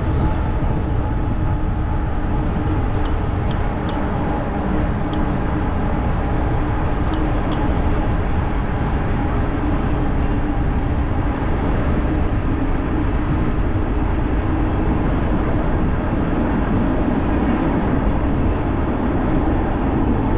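Wind rushing over the camera microphone of a moving e-bike, with tyre rumble on the trail and a steady hum underneath. A few faint ticks come between about three and eight seconds in.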